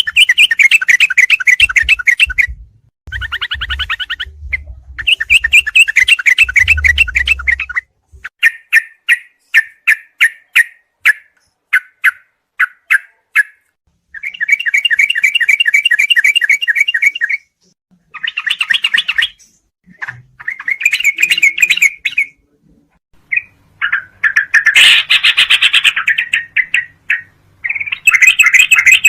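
Recorded song of a trucuk (yellow-vented bulbul), used as a master track for training songbirds. Bursts of rapid chattering trills alternate with runs of short separate chirps and brief pauses. A low hum sits under the opening seconds and returns near the end.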